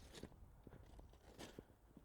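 Faint crunching footsteps, a few uneven steps.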